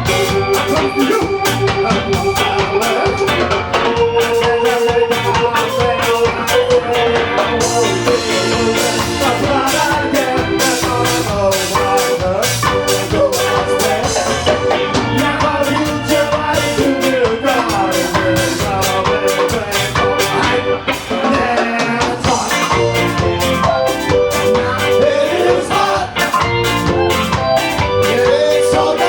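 Live ska band playing a song, with a steady beat and held melodic lines over the rhythm.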